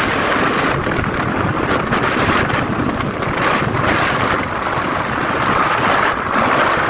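Wind rushing over the microphone of a motorcycle riding at highway speed, with the Royal Enfield Classic 350's engine running underneath; steady throughout.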